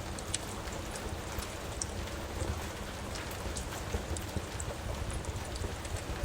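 Steady rain with a low rumble, dotted with small sharp crackles and pops from a wood fire in a fireplace.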